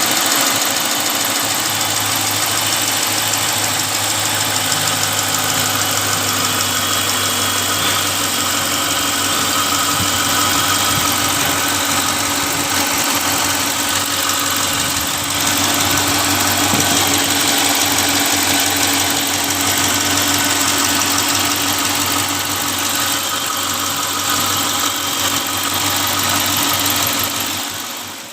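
Car engine idling steadily with no belt whine, its drive belt, tensioner and idler pulleys freshly replaced. The sound fades out near the end.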